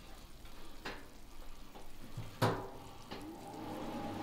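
Large stainless steel stockpot of donkey bones and broth handled on the stove: a light knock about a second in, then a louder metal clink that rings briefly about halfway through. A faint steady hum sets in near the end.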